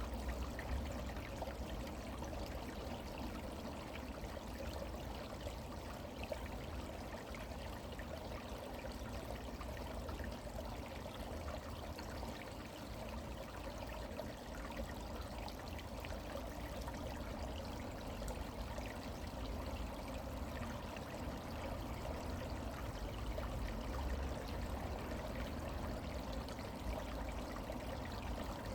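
A stream running and trickling steadily, with a low rumble beneath.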